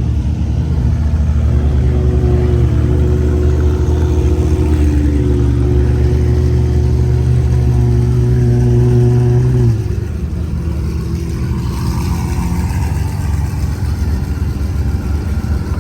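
Car engine running loud with a steady, deep exhaust drone held for about eight seconds, then dropping away suddenly; quieter engine sound carries on after it.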